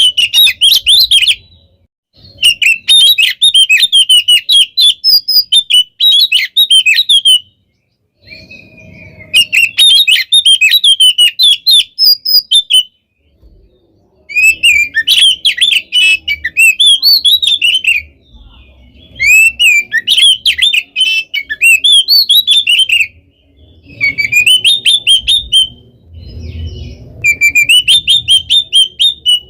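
Oriental magpie-robin (kacer) singing a loud, rapid, varied song full of mimicked phrases, in bursts of a few seconds each with short pauses between them.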